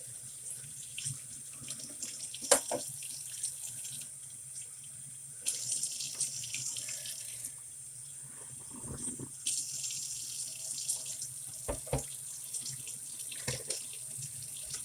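Water running and splashing at a sink as dirty work gloves are washed in soapy water, with a few sharp knocks, one about two and a half seconds in and one near twelve seconds.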